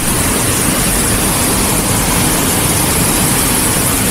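Loud, steady rushing of fast-flowing floodwater.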